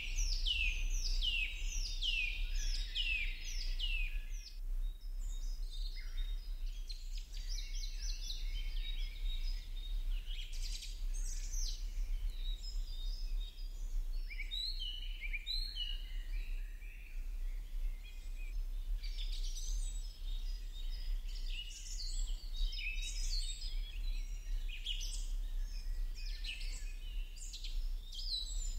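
Birds chirping and singing, a quick run of falling chirps in the first few seconds and then varied chirps throughout, over a steady low hum.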